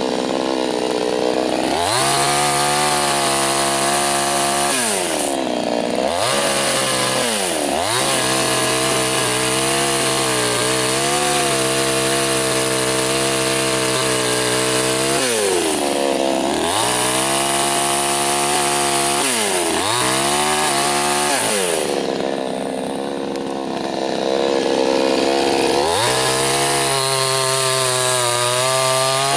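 Soyuz PTS-99520T two-stroke chainsaw cutting wood at full throttle. The engine note drops away and revs back up about five times as the throttle is let off, and about two-thirds of the way through it runs slower and quieter for a few seconds before revving up again.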